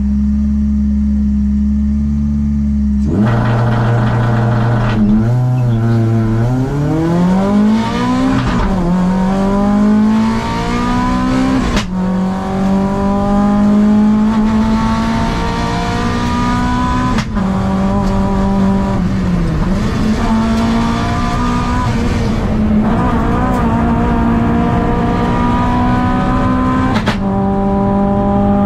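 Škoda Fabia 1.4 16v's four-cylinder engine heard from inside the cockpit. It is held at steady revs on the start line, then launches about three seconds in and revs hard up through the gears. The pitch climbs, drops sharply at each upshift and climbs again.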